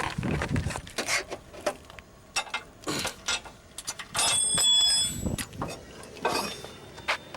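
Scattered clicks and knocks, with a brief high, bell-like ringing clink a little over four seconds in.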